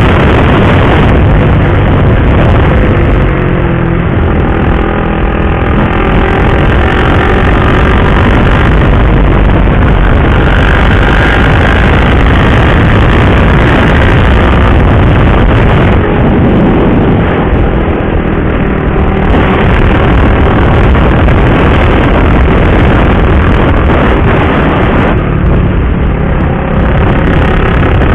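Motorcycle being ridden at speed: heavy wind rush over the onboard microphone covers the engine, whose pitch rises and falls a few times with the throttle.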